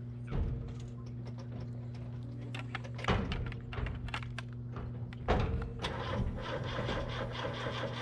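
Three knocks or thuds, like a vehicle door and cab being shut and handled, over a steady low hum. The sound grows busier and fuller about six seconds in.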